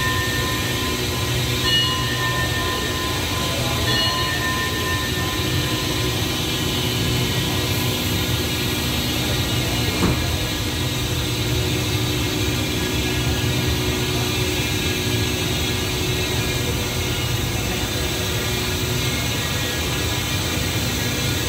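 Passenger train standing at a station platform with its machinery running: a steady low hum and drone that holds level throughout, with a faint click about ten seconds in.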